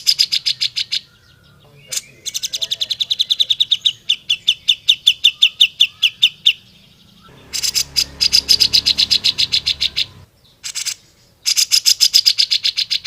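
Cucak jenggot (grey-cheeked bulbul) calling in fast trilled bursts of sharp repeated notes, about ten a second. The longest trill, running for several seconds from about two seconds in, slides slowly down in pitch.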